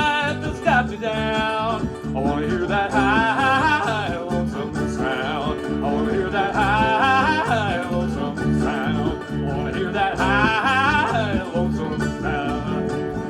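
Live acoustic bluegrass band playing the closing bars of a song: a lead line that wavers in pitch over a steady strummed and plucked accompaniment, with the upper parts dropping away at the very end as the low notes ring on.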